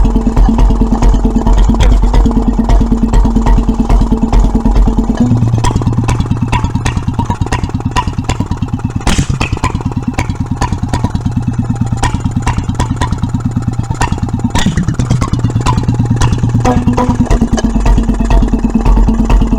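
1925 Petter M 1½ hp single-cylinder stationary engine running steadily with a regular firing beat, quite loud without its exhaust pipe fitted. It is running slower than its rated 750 RPM on a lighter governor spring than it should have. The tone of its note shifts for a stretch in the middle.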